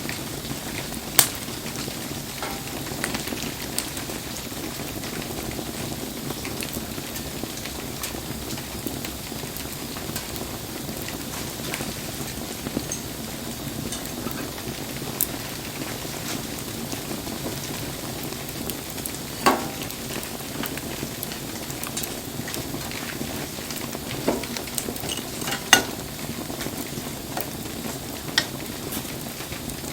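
Wood campfire burning in steady rain: a continuous hiss and sizzle with light crackling, and a few sharp pops from the burning wood, the loudest about a second in and twice more in the last third.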